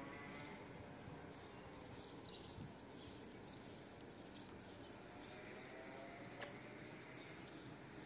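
Faint outdoor background with small birds chirping again and again, high and brief, and a single sharp click about six and a half seconds in.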